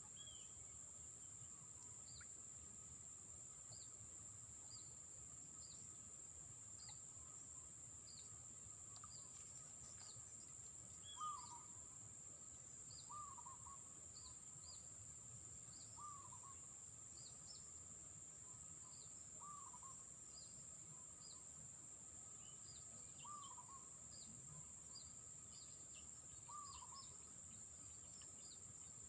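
Faint outdoor ambience: a steady high insect drone. From about a third of the way in, a short falling animal call repeats every two to four seconds, with small high chirps scattered throughout.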